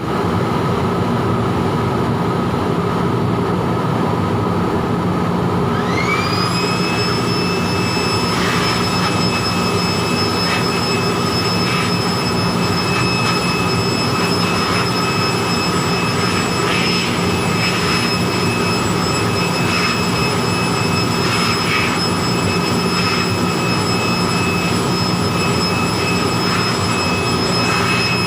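Electric blower running with a steady rush of air; about six seconds in, a high motor whine climbs and then holds steady, as air is blown through an air-handling unit's pre-filter to clear the dust.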